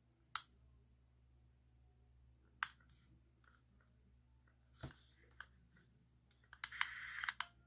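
Scattered sharp plastic clicks from a small portable noise machine being handled and its buttons pressed, with a cluster of clicks and a short scratchy rustle near the end.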